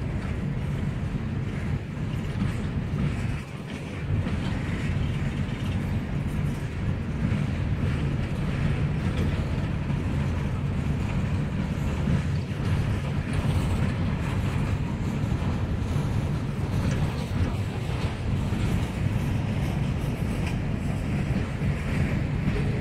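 Empty coal hopper cars of a freight train rolling past: a steady low rumble of steel wheels on rail, with fast clicking and clacking over it and a brief dip about three and a half seconds in.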